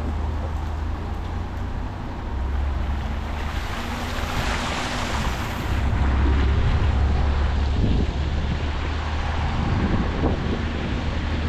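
Steady road and engine rumble of a moving car heard from inside, with a rushing hiss on a rain-wet road that swells louder about four seconds in.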